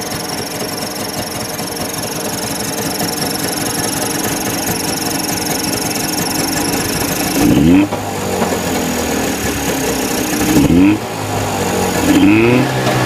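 Mitsubishi 360cc ME24 engine running with a squeaking 'kyuru-kyuru' noise from the distributor: the cam that the breaker points ride on has run out of oil. The throttle is blipped three times in the second half.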